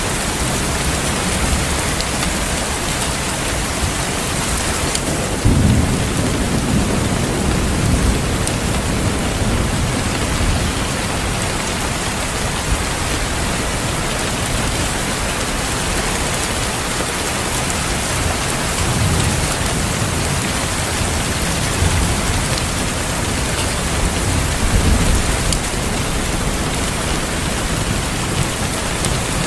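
Steady heavy rain with rolling thunder. The rumbles swell up about a fifth of the way in and again in the later half.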